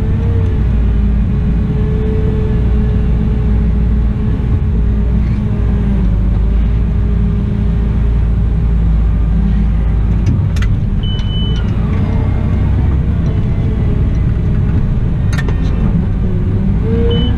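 Cat 972M XE wheel loader running steadily, a heavy engine rumble with a droning whine that drifts slightly in pitch. Two sharp clicks, and a short high beep about 11 seconds in and again near the end.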